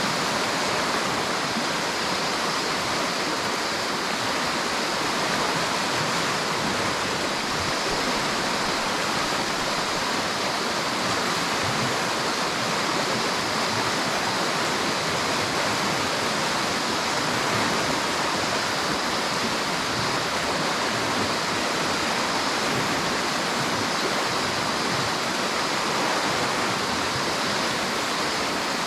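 River water rushing steadily over rocks, a constant even flow without breaks.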